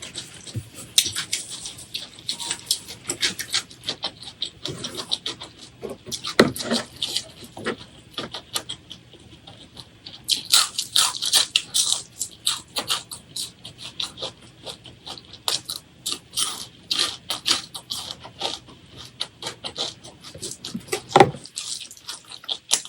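A person chewing food close to the microphone: crisp crunches and wet mouth clicks, several a second, with a louder bite near the end.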